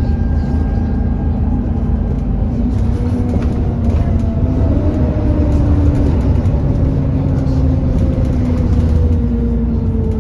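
Alexander Dennis Enviro400 E40D bus running, a steady low engine rumble under a whine that falls slowly in pitch, with a brief rise in a lower tone about halfway through.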